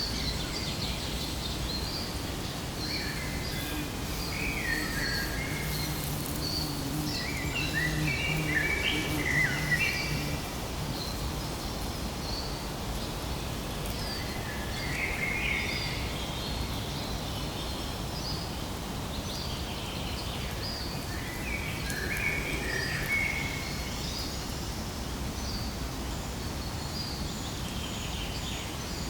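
Many small birds chirping and calling together, with short repeated chirps coming in bursts over a steady background noise.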